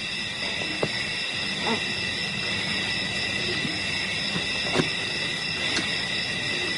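Steady, shrill chorus of night insects, with a few short, faint animal calls over it.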